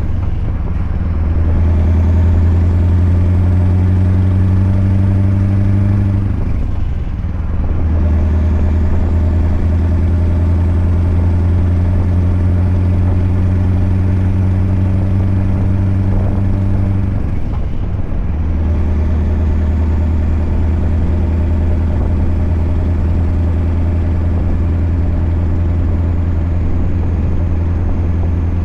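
Scania R580's straight-piped V8 pulling steadily under load. Its note breaks off briefly for gear changes three times: near the start, about six seconds in and about seventeen seconds in.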